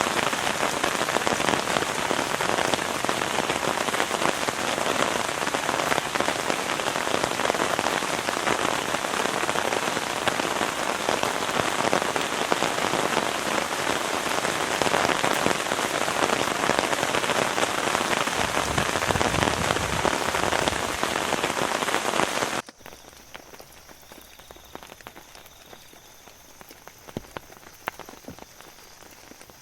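Heavy rain falling steadily, which cuts off abruptly about 23 seconds in, leaving a much quieter background with a few scattered faint ticks.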